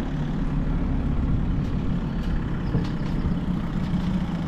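Outboard motor running steadily in forward gear at low throttle, a constant low engine hum.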